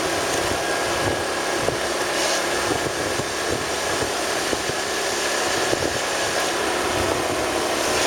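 Steady engine and road noise of a vehicle on the move.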